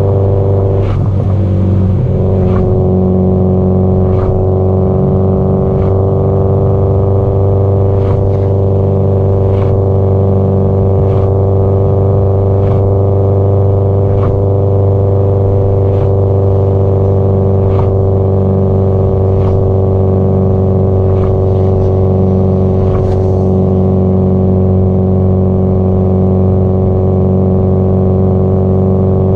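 Subaru Impreza WRX STI GDB-E's turbocharged flat-four running through its exhaust at a steady cruising speed, with the engine note holding an even pitch. Faint light knocks come through about every one and a half seconds.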